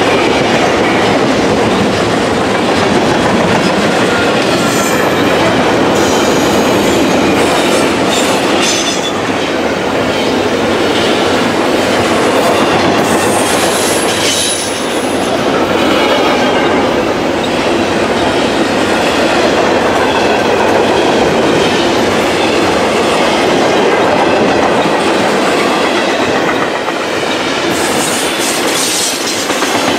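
A freight train of empty intermodal well cars rolling past close by: a steady, loud rumble of steel wheels on rail, with clickety-clack over the joints and thin, high wheel squeals now and then, one about halfway through.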